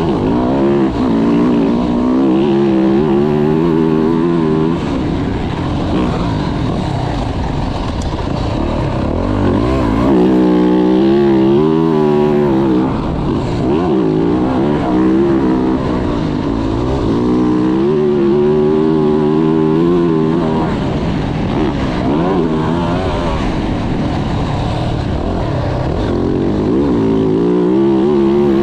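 Single-cylinder four-stroke Yamaha YZ450F motocross bike being ridden hard, its revs climbing and dropping over and over as the throttle is worked through corners and jumps.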